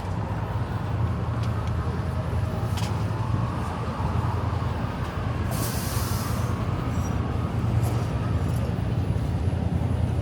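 Street traffic with heavy vehicles, engines running in a steady low rumble, and one short hiss of air brakes about six seconds in.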